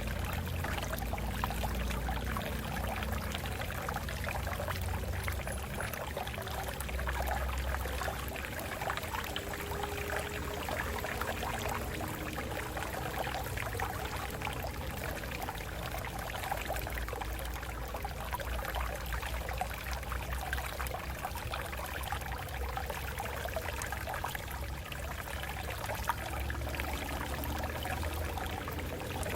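Stream water flowing and splashing over rocks, a steady babbling rush with a low rumble underneath.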